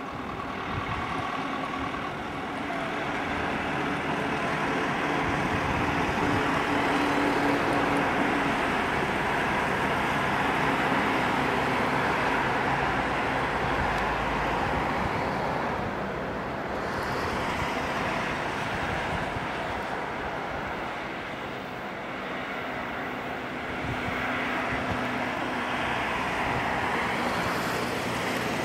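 Electric multiple-unit passenger train running along the tracks: a steady rumble of wheels and running gear that swells, eases in the middle and rises again near the end.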